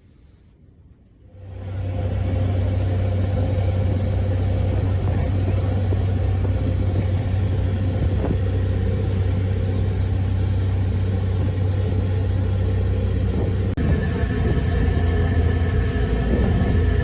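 Steady low rumble and hum of a vehicle's engine, starting abruptly about a second and a half in and running on evenly, with a slight change in tone near the end.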